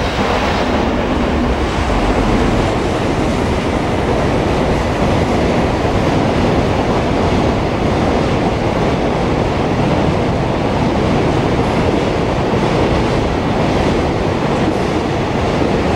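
Electric-hauled freight train running through a station at speed: a steady, continuous noise of its cars' wheels on the rails.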